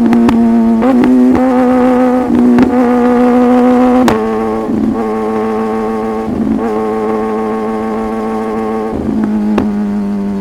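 Superbike engine running at steady high revs while riding, its note broken briefly a few times and dropping a little in pitch about four seconds in and again near the end.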